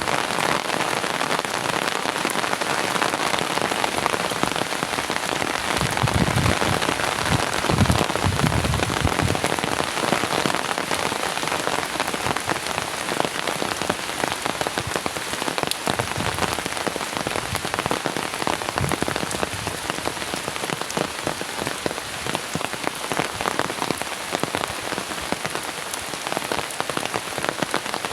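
Heavy rain pouring steadily on surfaces, a dense patter of drops, with a brief low rumble about six to nine seconds in.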